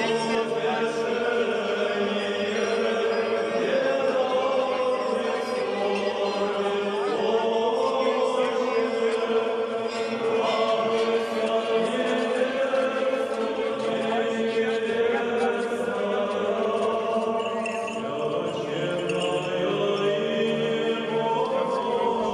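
Russian Orthodox church chant sung by a group of voices together during a procession of the cross, with long held notes that move step by step.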